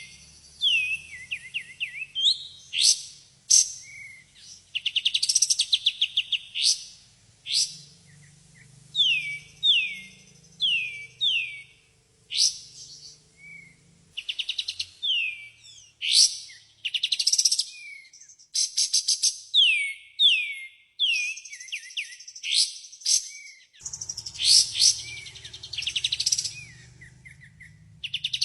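Kapas tembak songbird singing: a lively run of quick falling whistled notes, fast rattling trills and sharp chirps, repeated with brief pauses, as played in a lure recording meant to draw other birds to answer.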